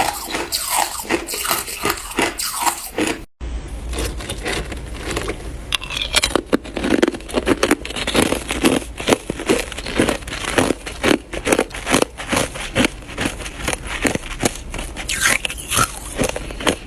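A person biting and chewing ice close to the microphone: a dense run of irregular sharp crunches and crackles. The sound cuts out for a moment about three seconds in, then the crunching resumes.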